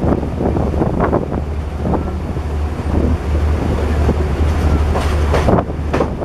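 Train running on the rails, wheels clattering irregularly over the track, under a heavy, steady rumble of wind on the microphone.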